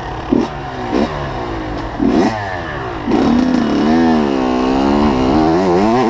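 85cc two-stroke motocross bike engine, its throttle blipped in three short revs, then held higher from about halfway with the pitch rising and falling.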